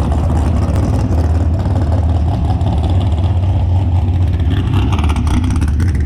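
A motor vehicle's engine running with a steady low rumble, holding an even speed rather than revving up.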